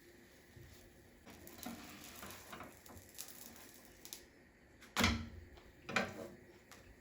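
Small handling noises: faint rustling and light clicks, then two sharp knocks about a second apart, the first the loudest.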